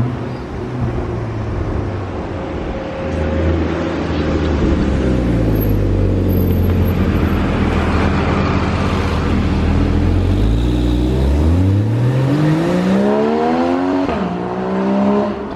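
Porsche 981 Cayman S flat-six engine and exhaust: the engine note falls and holds low, then climbs steadily under acceleration, dips sharply at an upshift near the end, and climbs again.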